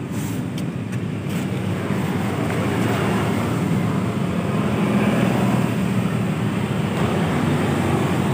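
Steady motor vehicle engine and road noise, a low rumble that grows a little louder after about two seconds, with a few short clicks near the start.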